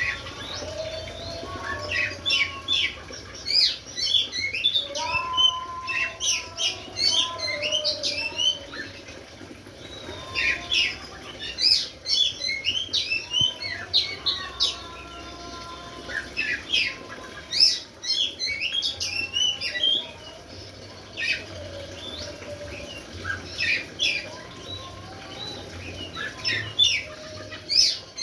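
Oriental magpie-robin singing in bursts of rapid, varied chirps and whistles, each run lasting a few seconds with short pauses between, with some lower sliding whistles mixed in.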